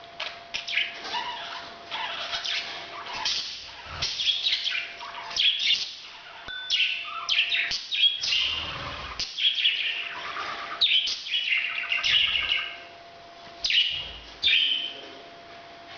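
Pet parrots chirping and chattering in a continuous run of short, quick calls, the kind of calling given in the breeding season.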